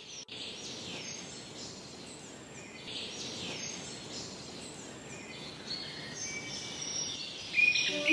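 Small birds chirping, many short falling calls, over a steady background hiss. Music comes back in near the end.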